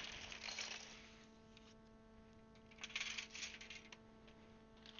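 Loose plastic keyboard keycaps clicking and rattling together as they are handled, with a short cluster of light clicks about three seconds in.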